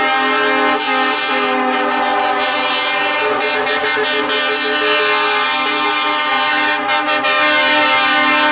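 Truck air horns sounding together in a steady multi-note chord, held without a break.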